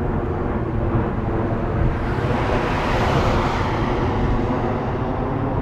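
A car passing on the road: its tyre and engine noise swells about two seconds in, peaks, and fades away, over a steady low rumble.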